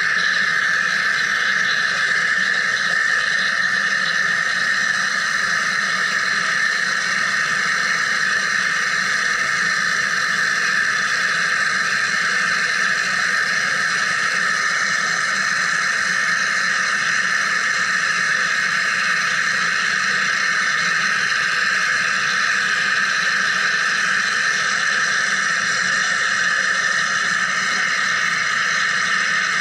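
Wire EDM (electrical discharge) machine cutting, giving off a steady high-pitched whine made of several held tones that does not change.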